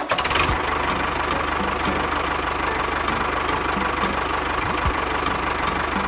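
Tractor engine running steadily with an even, rapid knock, starting abruptly.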